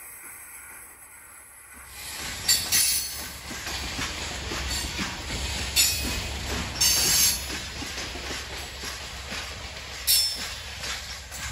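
Loaded coal hopper cars rolling past: a low rumble of steel wheels on rail, louder from about two seconds in, with several short high-pitched wheel squeals.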